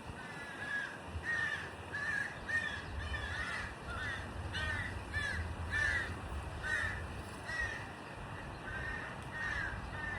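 Birds cawing over and over: short harsh calls, about two a second, over a low steady rumble.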